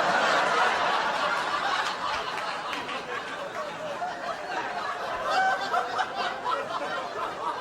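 Theatre audience laughing, loudest at the start and slowly dying down, with a few individual laughs standing out toward the end.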